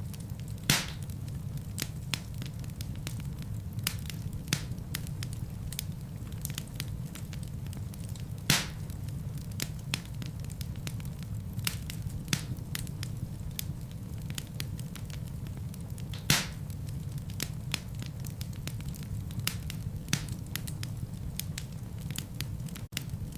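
Wood fire burning in a fireplace: a steady low rumble of flames with frequent sharp crackles and pops from the logs, the loudest pops about a second in, midway and about two-thirds through.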